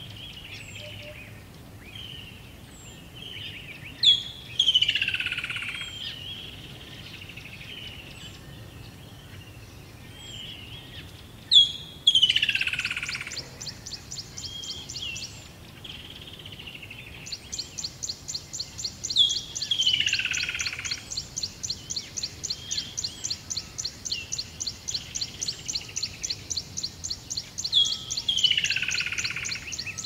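Several birds calling: a loud call that sweeps downward in pitch, heard four times about eight seconds apart, over softer chirps, and a fast, even, high-pitched trill that comes in about twelve seconds in, breaks off briefly, then resumes.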